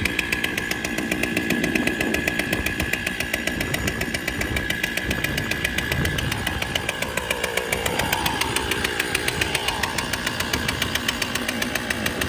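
Large two-stroke chainsaw with a 52-inch bar, mounted in an Alaskan chainsaw mill, running steadily at high speed; its pitch wavers a little in the middle.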